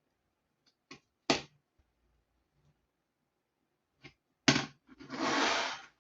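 Sharp knocks and clacks of hard parts or tools being handled, two about a second in and two more near the end, followed by an even hiss-like burst lasting about a second.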